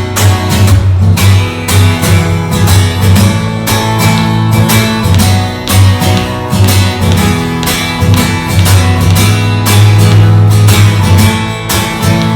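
Acoustic guitar strummed steadily in an instrumental break between sung verses of a song.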